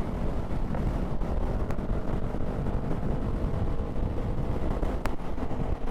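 Motorcycle riding along, its engine running under heavy wind and road rumble on the rider's microphone. A steady engine tone becomes clearer about halfway through, and there is one short click near the end.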